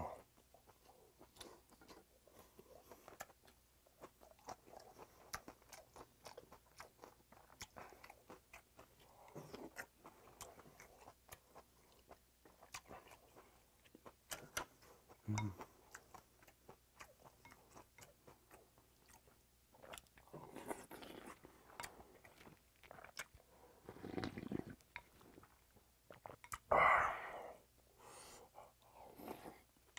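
Close-miked eating of pork and rice soup: steady wet chewing and mouth sounds with many soft clicks. In the last ten seconds come a few louder breathy bursts, the loudest near the end.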